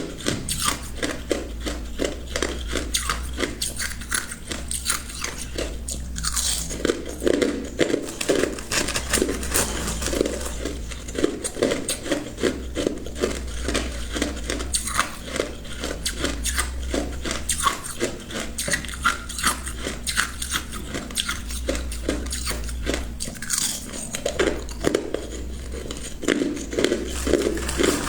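A person biting and chewing ice cubes close to the microphone: a fast, unbroken run of sharp crunches, several a second.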